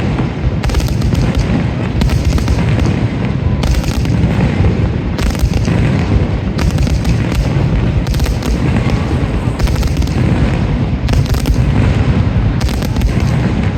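Fireworks display: dense, continuous booming of shells bursting overhead, with short spells of crackle coming every second or two.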